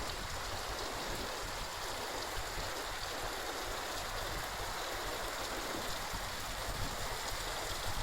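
Steady rush of a creek flowing.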